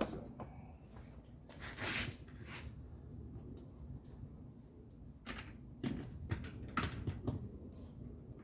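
Scattered light clicks, knocks and a short rustle of hands handling plastic trim parts and small screws, with a cluster of clicks over the last few seconds.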